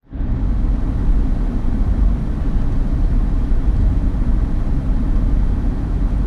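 Steady low rumble of a vehicle on the move: engine and road noise heard from inside the vehicle.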